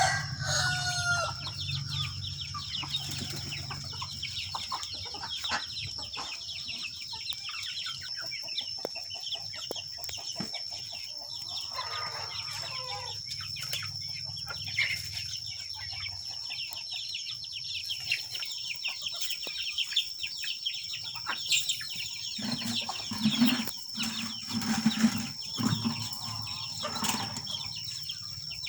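Chickens clucking and moving about, with many short scratchy clicks, a pitched call right at the start and a falling call about twelve seconds in. A thin steady high tone runs underneath.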